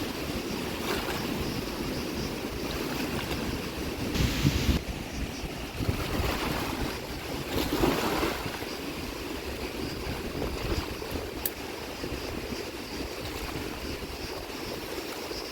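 Flowing water rushing steadily, with wind buffeting the microphone, and two louder bursts about four and eight seconds in.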